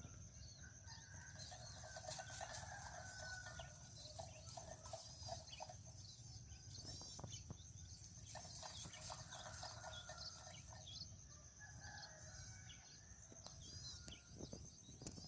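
Faint bird calls: many short high chirps of small birds, over lower clucking calls and a steady high-pitched tone.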